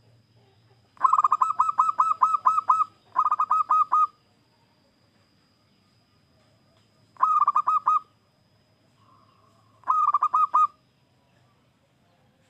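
Zebra dove (perkutut) cooing in four bursts of rapid, clipped notes, the first burst the longest.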